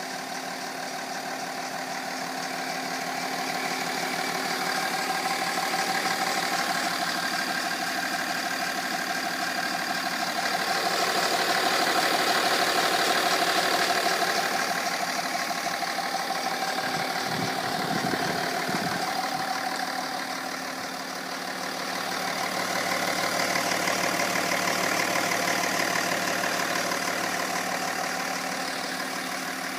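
BMW 330d E46's straight-six turbodiesel idling steadily, its level swelling and easing gently a few times.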